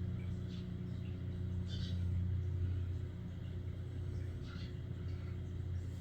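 Steady low motor rumble with a few faint, short bird chirps over it.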